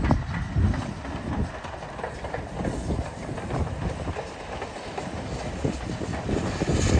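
A train running past, its wheels clattering over the rails, getting louder near the end.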